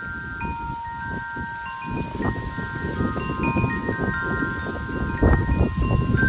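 Wind chimes ringing in gusty wind: many long, overlapping tones struck at irregular moments. Wind buffets the microphone with a low rumble that is heaviest about five seconds in.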